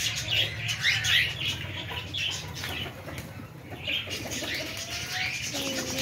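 Caged pet birds chirping in short, repeated calls, with the flutter of wings flapping.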